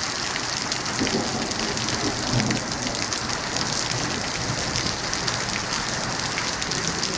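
Heavy rain falling steadily, a dense hiss with many individual drops ticking on hard surfaces.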